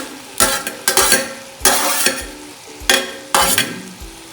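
A spoon scraping and stirring onions and green chillies frying in oil in a pan: about five irregular scraping strokes, with a steady sizzle between them.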